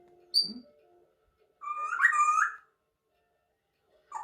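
African grey parrot calling: a short high whistle about half a second in, then a louder, longer whistled call that bends in pitch around two seconds in.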